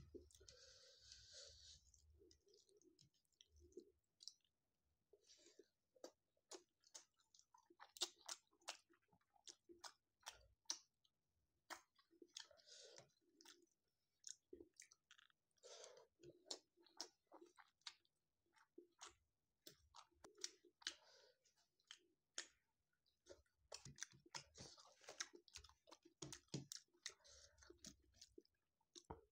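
A person chewing and eating food, quiet, with irregular sharp clicks and a few short crackly stretches.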